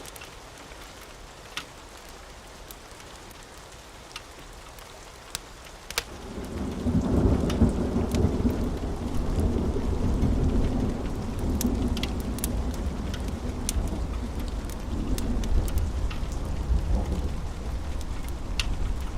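Steady rain with scattered sharp pops. About six seconds in, a long low roll of thunder builds and rumbles on, louder than the rain.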